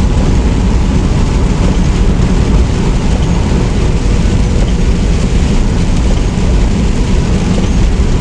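Steady drone of a semi truck driving at road speed, heard from inside the cab: engine and road noise without a break.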